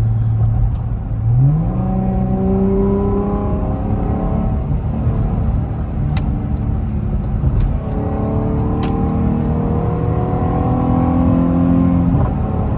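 Chrysler 300's 3.6-litre Pentastar V6 accelerating, heard from inside the cabin. The engine note jumps up about a second in and climbs steadily. It drops at a gear change around eight seconds, climbs again, and eases off near the end.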